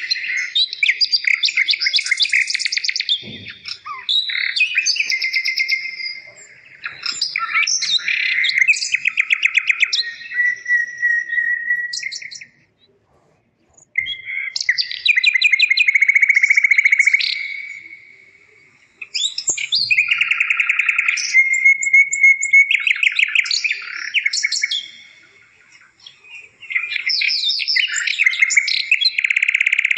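A songbird singing in long phrases of rapid trills, chirps and held whistled notes. Short pauses fall between phrases, the longest a silent break almost halfway through.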